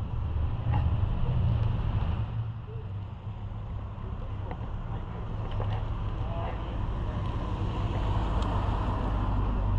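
A car engine idling close by: a steady low rumble with a few faint ticks over it.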